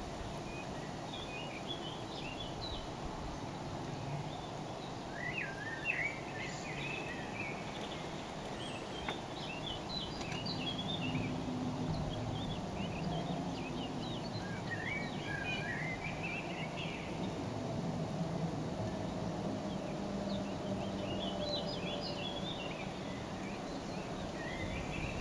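Songbirds singing in short warbling phrases every few seconds over a steady outdoor background hiss, with a faint low hum through the middle.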